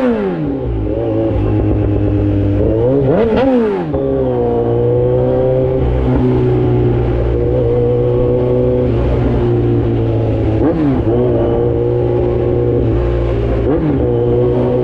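Kawasaki Z900's inline-four engine through an Austin Racing full exhaust, under way. The revs fall away as the throttle closes, rise and fall in a quick blip about three seconds in, then hold steady at cruise, with two brief dips in pitch near the end.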